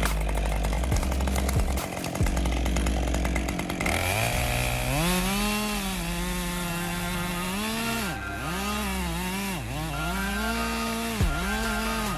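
Two-stroke chainsaw running with a rattle at first, then revving up about four seconds in and holding at high speed. Its pitch sags and recovers several times as the chain bogs under load in the wood.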